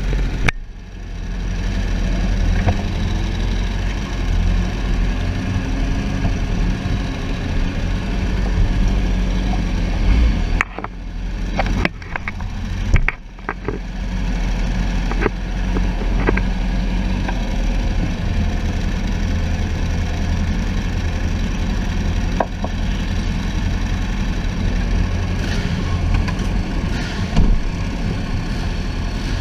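Sportbike engine running at low revs, heard from a camera mounted on the motorcycle, with a few sharp knocks about halfway through.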